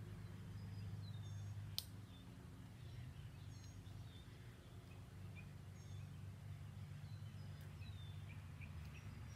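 Quiet outdoor ambience: a steady low hum with faint, short high bird chirps repeating every couple of seconds. A single sharp click about two seconds in.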